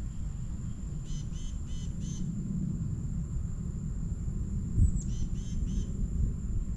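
A bird calling in short repeated notes, a quick run of four about a second in and three more about five seconds in, over a steady high-pitched insect-like whine and a low outdoor rumble.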